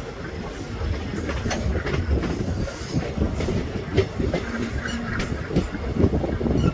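Passenger train running on the track: a low rumble with irregular knocks of the wheels over rail joints, and a brief high-pitched wheel squeal about three seconds in.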